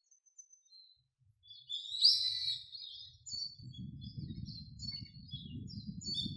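Small birds chirping and twittering in short calls, the loudest about two seconds in. From about halfway, a low rough rumble runs underneath.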